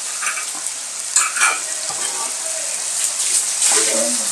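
Marinated chicken tikka pieces sizzling in hot oil in a shallow pan, with a few short scrapes of a utensil as the pieces are turned over.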